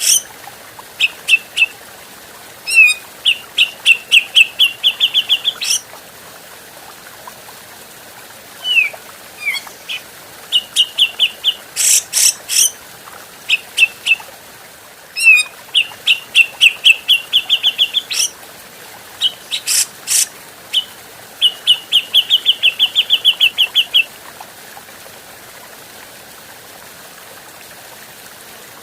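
Cucak jenggot bulbul calling in runs of rapid, evenly repeated chattering notes, broken by a few short, harsh notes and pauses, over a steady hiss. It falls silent for the last few seconds.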